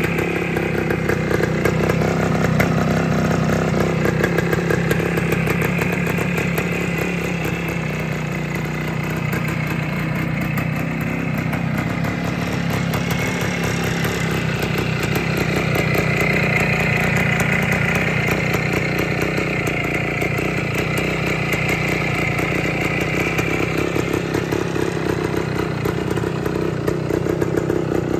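Kawasaki 250TR Bison (F11) air-cooled 250 cc two-stroke single idling steadily, with a fast, even firing rhythm.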